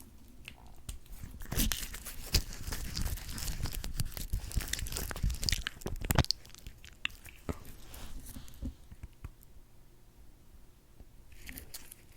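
Close-miked, sticky, crackling clicks of lip gloss being applied. They come thick and fast for the first half, then thin out to scattered clicks.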